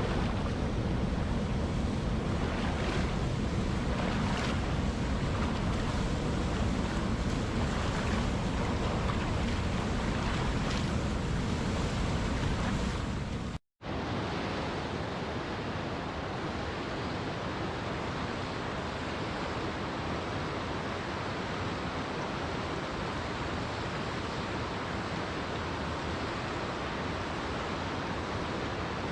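Steady rushing water. It cuts out for an instant about halfway through and comes back as a smoother, higher hiss with less low rumble.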